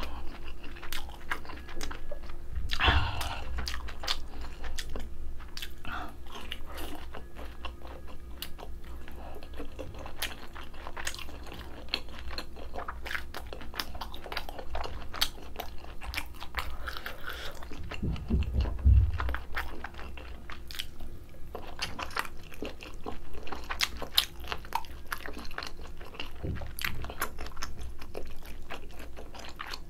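Close-miked eating sounds: wet chewing and crunching of kimchi and grilled pork belly, with many sharp small clicks, and two low thumps, about 3 seconds and 19 seconds in.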